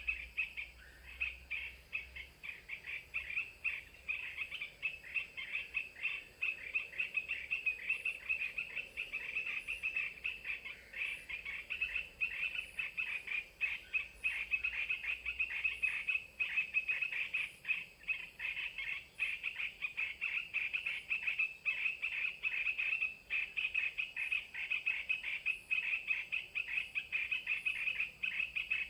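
Dense, continuous chorus of rapid chirping from wild animals, holding at one high pitch without a break.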